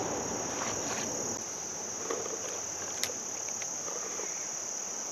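Insects, likely crickets, trilling in a steady high-pitched chorus, with a soft background hiss. A single sharp click about three seconds in, and a few fainter knocks.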